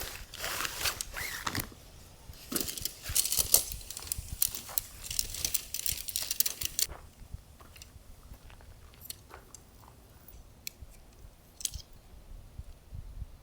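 Handling noises: quick rustles and light clinks and rattles, busy for about seven seconds, then only a few scattered clicks.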